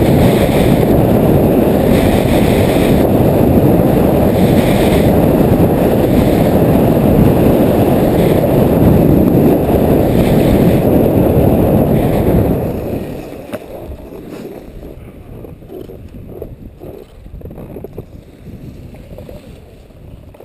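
Loud wind noise buffeting a head-mounted GoPro's microphone during a ski run in blizzard conditions. It dies down sharply about twelve seconds in, leaving a quieter, uneven hiss.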